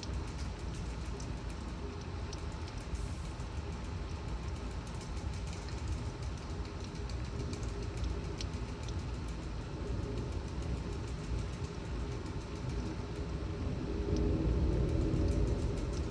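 Severe thunderstorm: torrential rain and gusting wind make a steady low rushing rumble, with many small ticks of raindrops striking, swelling louder near the end.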